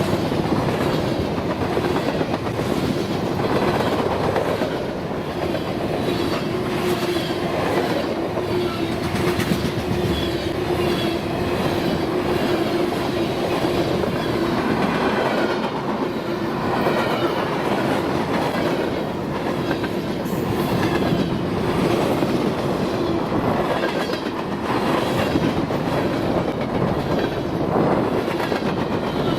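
Freight train cars rolling steadily past, wheels clicking and rattling over the rails.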